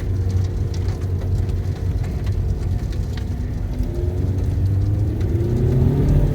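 A car engine running steadily, then revving up with a rising pitch over the last couple of seconds.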